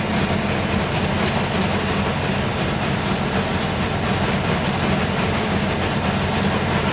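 A Solis 50-horsepower tractor's engine running steadily under load while driving a PTO slurry whisk that stirs a slurry tank. There is a constant low hum with a rushing noise over it.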